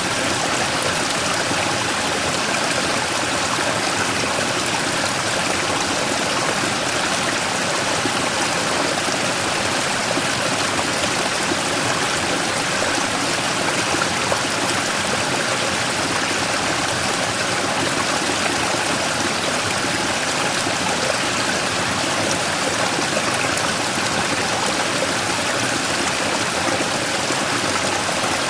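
Mountain stream rushing steadily over a large rock in a small waterfall, an even, unbroken splashing of water.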